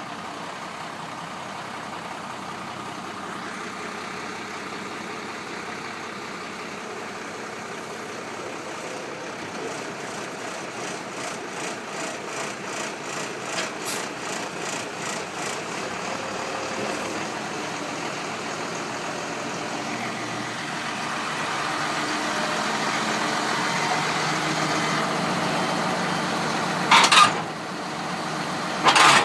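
International DT466 inline-six diesel engine of a 1993 International 4900 dump truck running steadily, growing louder about two-thirds of the way through. A short, sharp burst of noise cuts in near the end.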